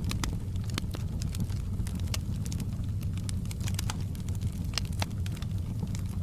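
Wood fire burning in a stone fireplace: irregular sharp crackles and pops over a steady low rumble of the flames.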